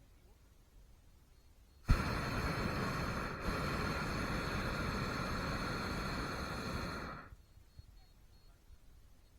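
Hot air balloon's propane burner firing: one blast that starts suddenly about two seconds in, runs as a steady loud rush for about five seconds, and dies away.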